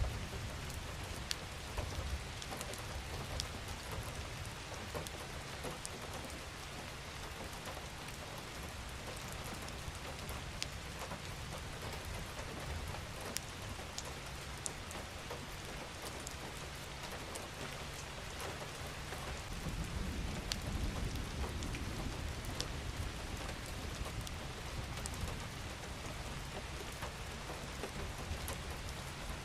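Steady rain falling, an even hiss with scattered sharp drop ticks. About two-thirds of the way through, a low rumble swells for a few seconds under the rain.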